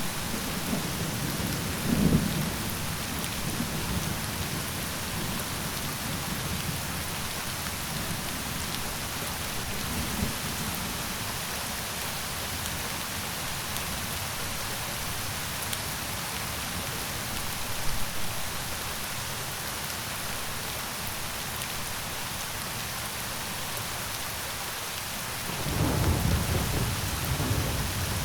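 Steady rain with low rolls of thunder: one about two seconds in, fainter ones in the middle, and a longer rumble near the end.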